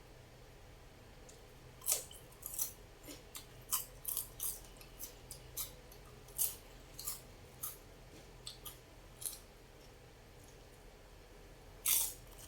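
Close-miked eating sounds: irregular short, crisp clicks and crunches, one or two a second, with the loudest about two seconds in and near the end.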